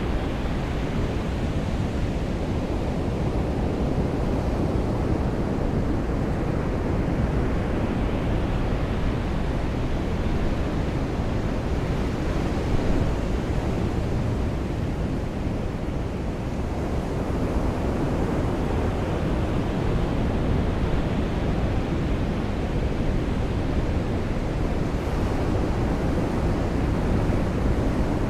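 Ocean surf on a beach: a steady low rushing noise that slowly swells and eases, with the upper hiss fading for a few seconds near the middle and building again.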